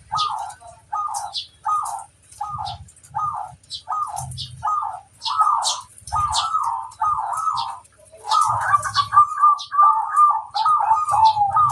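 Zebra dove (perkutut) cooing: short rolling coos repeat about twice a second, then run together into a longer continuous warbling coo from about eight seconds in. Thin high chirps sound over it.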